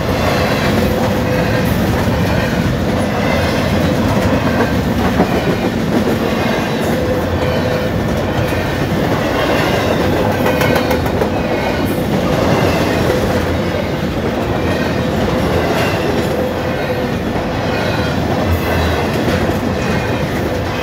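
Double-stack intermodal freight train passing at close range: the steady loud noise of steel wheels rolling on the rails, with scattered clacks as the well cars pass over the crossing.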